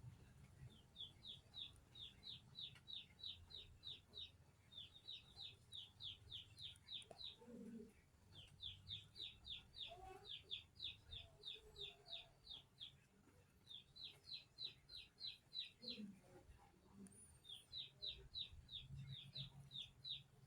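Faint bird calls: runs of short high chirps repeated about six times a second, each run lasting two to three seconds, with short gaps between the runs.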